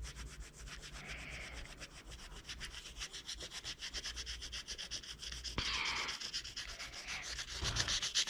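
Oil pastel scratching across paper in quick, short repeated strokes, many a second, as grass is drawn.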